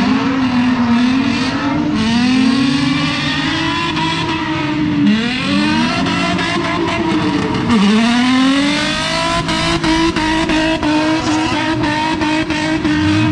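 Drift cars' engines revving hard up and down, over and over, as they slide through the corners in tandem. The pitch holds high toward the end, with a rapid run of sharp pops and cracks.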